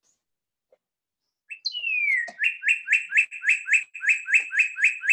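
A songbird singing, starting about a second and a half in: one falling whistle, then a fast run of repeated chirping notes, about four or five a second.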